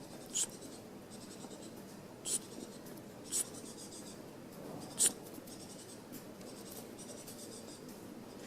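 Four short scratchy rustles, spaced irregularly, over a faint steady background hiss.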